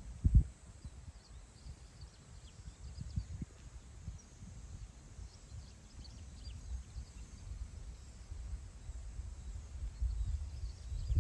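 Wind gusting across open grassland and buffeting the microphone in low rumbles, the strongest just after the start and near the end. Faint high bird chirps come through now and then.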